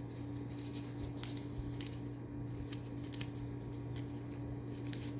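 Paper banknotes being handled and folded by hand, with small crisp rustles and clicks, over a steady low hum.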